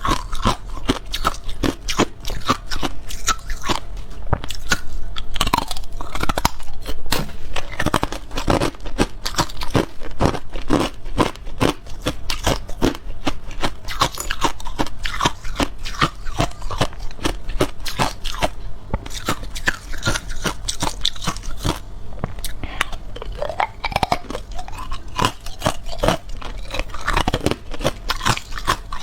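Ice being bitten and chewed, a dense run of sharp, crackling crunches throughout.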